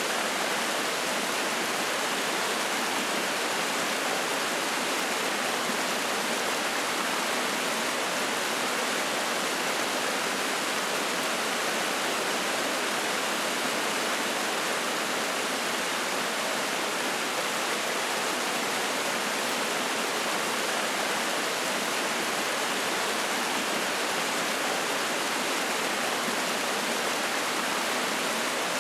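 Mountain stream rushing and splashing over rocks, a steady, even flow of water.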